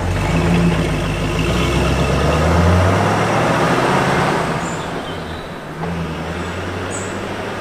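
Ford V8 Pilot's side-valve V8 engine pulling away, its note rising for the first few seconds as the car accelerates, then fading steadily as it drives off, with a brief dip in the note about five and a half seconds in.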